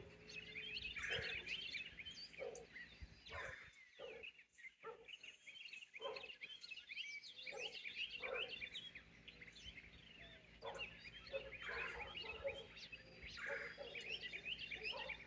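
Faint morning bird chorus: many birds chirping over each other in quick, overlapping high calls, with scattered shorter, lower-pitched calls among them.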